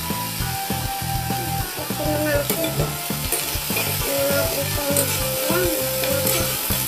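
Chopped winged beans sizzling as they sauté in a pan, with a metal spoon scraping and stirring through them partway through.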